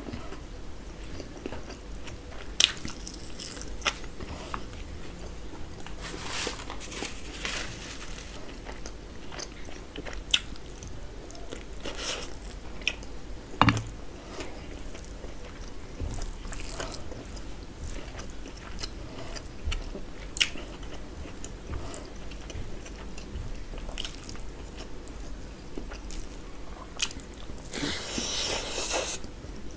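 A person eating rice and curry by hand, close to the microphone: chewing and biting with scattered sharp clicks and one louder knock about halfway through. A denser stretch of noisy mouth sounds comes near the end as a handful of rice goes into the mouth.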